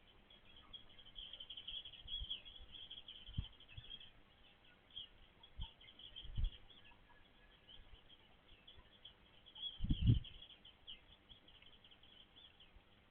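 Small birds chirping rapidly and continuously in high, short notes, with a few low thumps, the loudest about ten seconds in.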